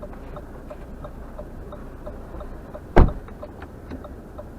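Low hum of a car heard from inside the cabin, with a turn-signal relay ticking about three times a second. One heavy thump about three seconds in.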